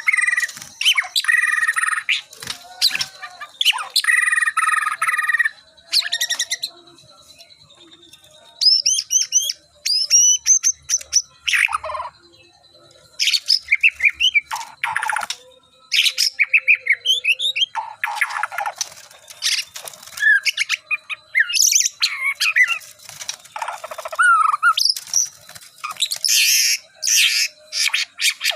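White-rumped shama (murai batu) singing: a long run of varied, fast phrases of chirps and gliding whistles broken by short pauses. Its keeper considers it starting to be ready for song contests.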